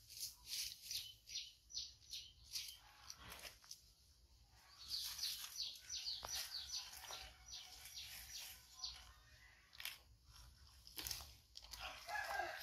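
A bird calling with a run of short, falling chirps, about three a second, which stops and starts up again a few seconds in. A few sharp clicks come near the end.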